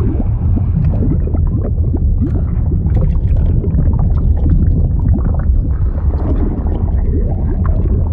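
Liquid sound effect: a deep, steady rumble of churning water with many small bubbles gurgling through it.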